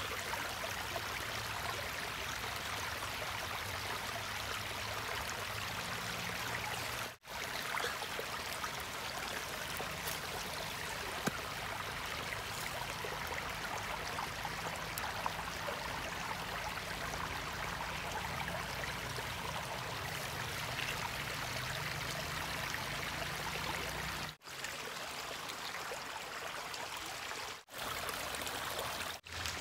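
Stream water running steadily, broken off sharply for a moment four times.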